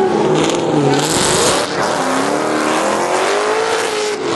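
Engines of two Ford Mustang drift cars revving as they slide sideways, their pitch rising and falling, with bursts of tyre hiss during the first second and a half.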